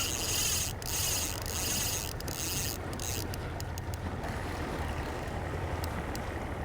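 Fly reel buzzing in bursts as line runs on and off it during a fight with a large tarpon. It goes in several stops and starts over the first few seconds, then drops to a few faint ticks, over a steady low rumble.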